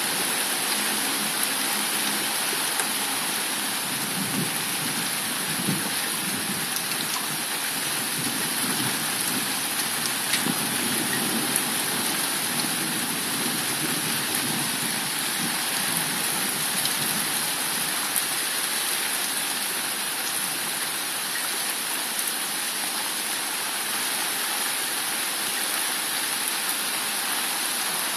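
Steady hiss of heavy rain in a thunderstorm, with an uneven low rumble underneath in the first half.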